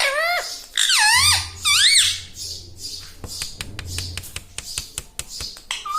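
Pet parrot making three short, squeaky calls that rise and fall in pitch, followed by a run of sharp clicks.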